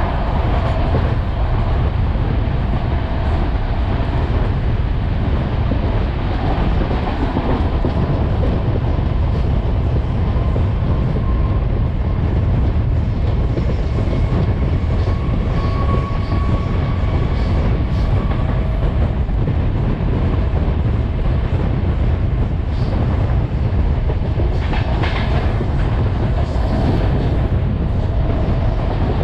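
Train running along the track: a steady, loud rumble with wheels clacking over the rail joints.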